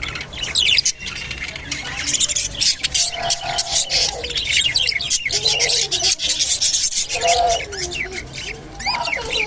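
Budgerigars chattering: a dense run of rapid chirps, squeaks and short warbles, with some clicks.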